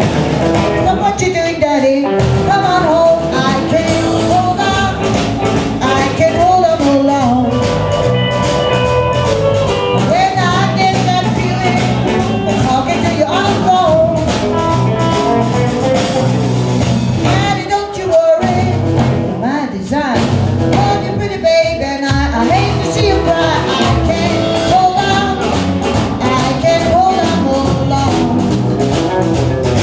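Live blues and rock-and-roll band music with a steady drum beat and a melody line that bends in pitch.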